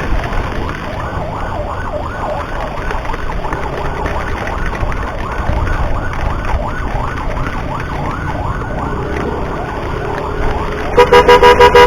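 Ambulance siren sounding a fast yelp, rising and falling a few times a second, over a steady low rumble. Near the end a horn cuts in with a rapid string of about six short, loud beeps.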